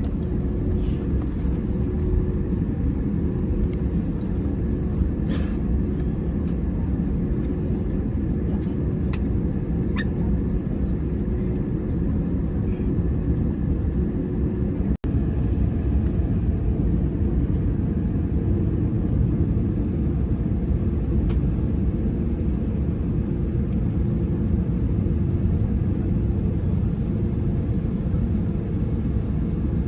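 Airbus A321 cabin noise from a passenger seat: a steady low rumble from the jet's engines, with a faint steady hum over it in the first half. The sound drops out for an instant about halfway through.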